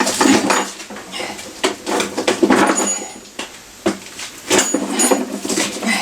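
Irregular metal clunks, clinks and scrapes as a motorcycle engine on a dolly is shifted into position against the frame.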